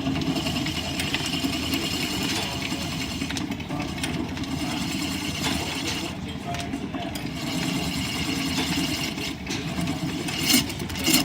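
Line-shaft-driven wood lathe and its shafting and belts running steadily, with a few sharp knocks near the end.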